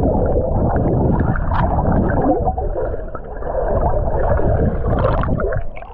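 Muffled rushing and bubbling of water heard through a submerged or water-covered microphone as swimmers move, with a heavy low rumble.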